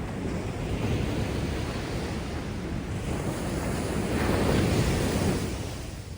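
Heavy surf of a storm-churned sea after a typhoon: waves breaking and washing up the beach, with one breaker swelling to its loudest about four to five seconds in before falling away.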